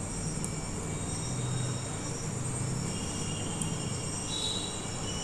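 Spice masala frying in mustard oil in a metal kadai while a spatula stirs and scrapes it round the pan: a steady sizzle and scrape, with two light clicks of the spatula about half a second and three and a half seconds in.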